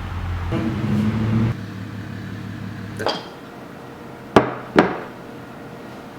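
Three sharp knocks or clinks, one about three seconds in and two close together just after four seconds, over a low hum that dies away in the first few seconds.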